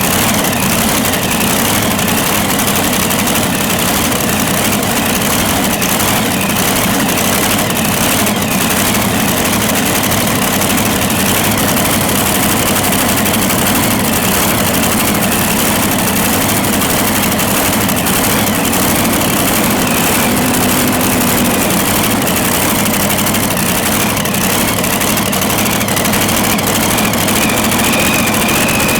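The supercharged engines of a twin-engine modified pulling tractor running loud and steady, with no clear revving up or down.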